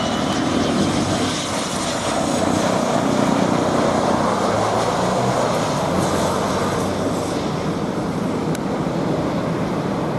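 Airliner's engines running loud and steady, a continuous rush of jet noise with a faint high whine early on, as the plane lands or takes off.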